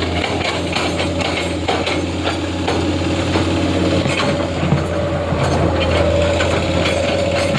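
Heavy diesel engine running steadily, with a higher whine that rises a little about five seconds in and scattered short clicks and knocks.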